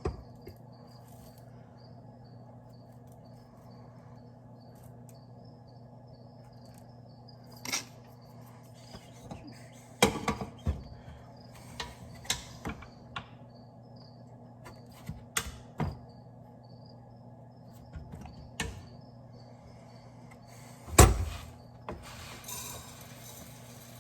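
A steady low machine hum with a faint, high, rapidly repeating chirping over it, broken by a series of sharp knocks and clattering handling noises; the loudest comes near the end.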